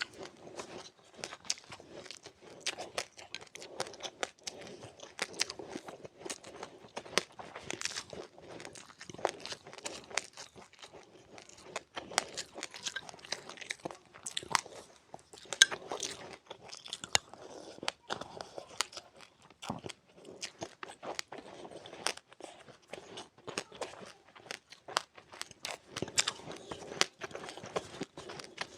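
A person chewing crunchy seeds: a continuous, irregular run of sharp crunches and cracks.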